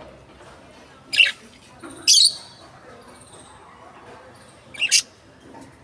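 Lovebirds giving short, loud, shrill squawks: sharp calls about one and two seconds in, then a quick double call near five seconds, over faint high chirping.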